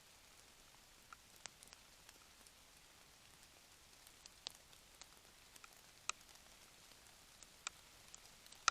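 Faint steady background hiss broken by a dozen or so scattered, irregular sharp ticks. The loudest tick comes about six seconds in, and another comes at the very end.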